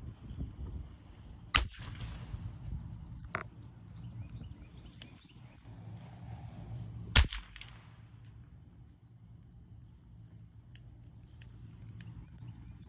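Two sharp bangs about five and a half seconds apart, with two fainter pops between them. These are loud-noise desensitization sounds of the firework or gunshot kind, made for the puppies to hear while they eat.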